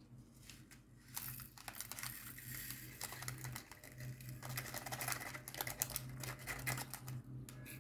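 Quiet, irregular light clicking and rattling of small plastic diamond-painting crystals and their containers being handled and sorted, over a faint steady low hum.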